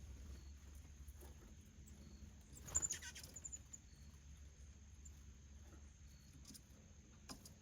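Faint background with a steady low hum and a thin, steady high-pitched tone. A quick run of clicks and taps with high chirps comes about three seconds in, and a single click comes near the end.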